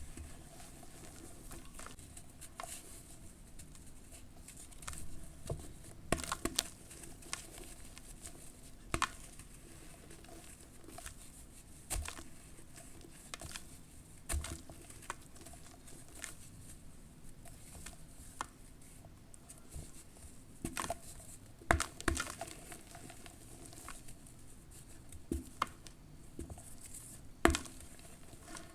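Lumps of pure charcoal ash dipped in water, crumbling and crackling: irregular small cracks and crunches with a few louder snaps.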